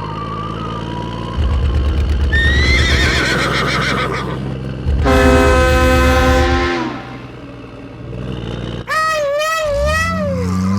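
A small engine chugging in two stretches, with a horn-like blast held for about two seconds in the middle. Near the end comes a quavering horse whinny.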